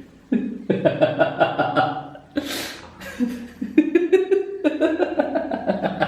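A man laughing hard in fits of rapid, pulsing 'ha-ha' bursts, with a loud breathy gasp for air about two and a half seconds in.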